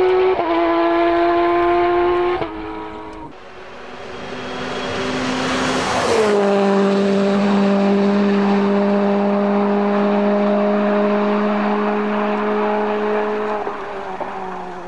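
Rally cars at full throttle: an engine held at high revs with two quick upshifts in the first few seconds, then a car approaching and passing with a sharp drop in pitch about six seconds in, its engine holding steady revs as it fades into the distance.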